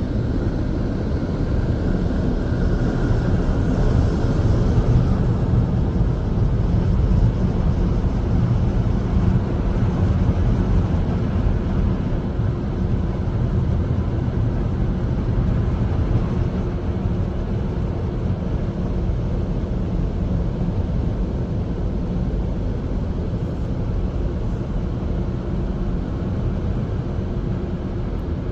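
Air dryer blowers of an Istobal M'Wash 3 touchless car wash running steadily, side and roof dryers blasting air over the car in the drying stage. A continuous low rush with a faint steady hum, slightly louder a few seconds in and easing a little near the end.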